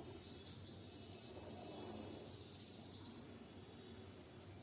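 High, faint bird-like chirping: a quick run of about five chirps in the first second, then sparser, fainter chirps over a light hiss.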